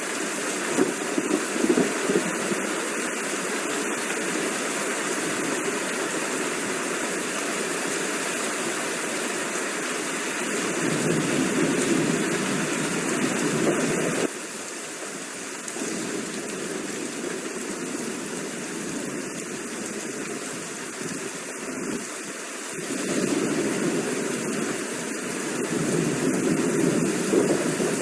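Steady heavy rain, with low rumbling swells about ten seconds in and again near the end. The sound steps down suddenly in level about fourteen seconds in.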